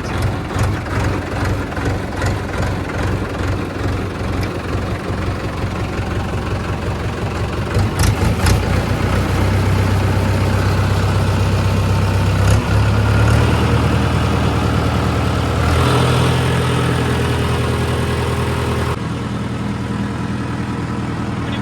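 Farm tractor's engine running, with an even chugging rhythm at first and a couple of sharp knocks about eight seconds in. It then gets louder and steadier, and drops back a little about nineteen seconds in.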